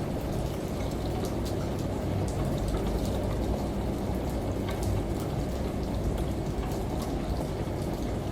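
Steady rain and running water, with scattered drops pattering over a low, even rumble.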